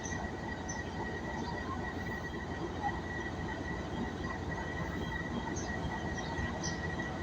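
Passenger train rolling on the rails with a steady rumble and a thin, steady high-pitched whine over it.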